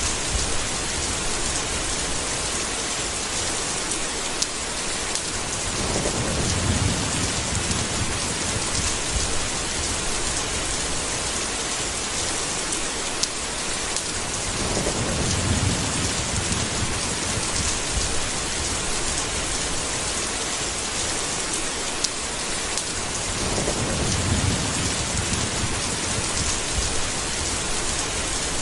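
Steady rain with a low rumble of thunder rolling in three times, about nine seconds apart.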